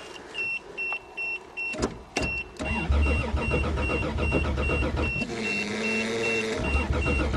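Toyota Cressida's starter cranking the cold engine in long bursts without it catching, over a steady warning chime beeping about two and a half times a second. The owner suspects ice in the fuel lines.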